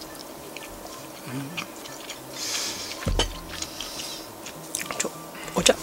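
A person chewing a mouthful of rice, with soft mouth clicks and ticks, a short breathy hiss, and one dull thump about three seconds in.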